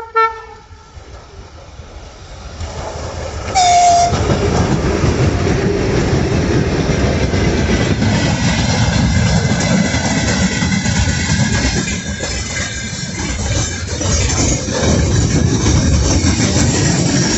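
A train gives two short horn blasts, one at the very start and another about three and a half seconds in, then passes close by: a loud, steady rumble with rapid wheel clatter on the rails.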